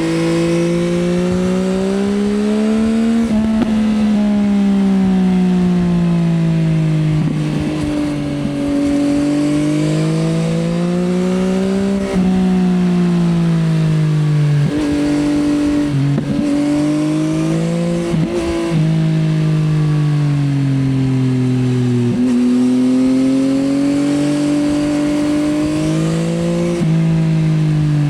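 2024 Yamaha XSR900's 890 cc inline three-cylinder engine through an Akrapovič Racing Line exhaust, running loud under riding. The pitch climbs and falls in long sweeps, with short breaks at the gear changes about every three to four seconds.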